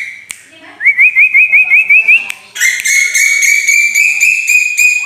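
Bird lure recording of a tuwu bird calling: a quick series of about seven rising whistled notes, then from about halfway a fast, continuous trill held at one high pitch.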